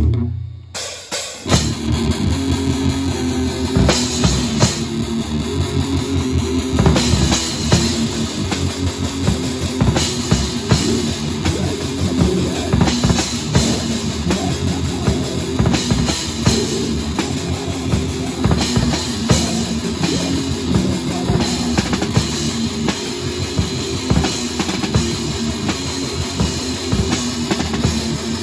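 Rock band playing live at full volume: rapid drumming on a drum kit with bass drum over guitar and bass. There is a short break just after the start before the full band comes back in.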